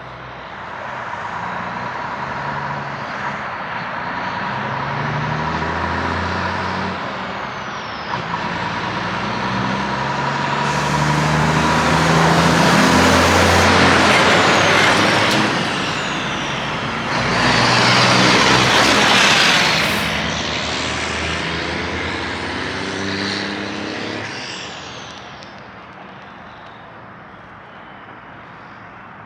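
Mack R-model truck's diesel engine pulling away and climbing through the gears, with the pitch stepping up and down at each shift. It gets loud in two surges through the middle as it passes close, then fades into the distance.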